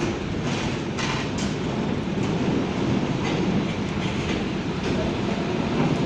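Train rolling along the rails: a steady rumble with the clickety-clack of wheels passing over rail joints.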